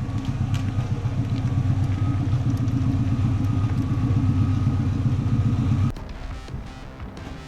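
Turbocharged Subaru EJ205 flat-four engine running steadily on a chassis dyno, with a deep, even exhaust note; it cuts off abruptly about six seconds in.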